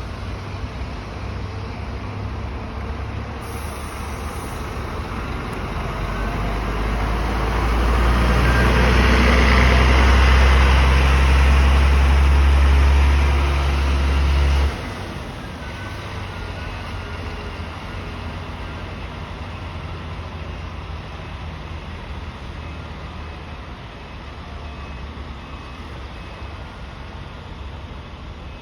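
Scania K380IB coach's diesel engine pulling under load, growing louder over several seconds and then dropping off suddenly about fifteen seconds in. Steady road traffic noise follows.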